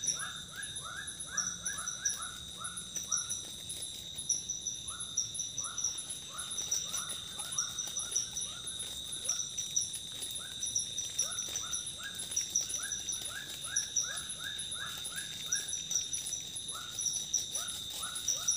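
Tropical forest ambience of animals and insects: a steady high insect drone, rapid clustered chirping above it, and runs of short repeated calls in a lower register that come and go in bursts of several per second.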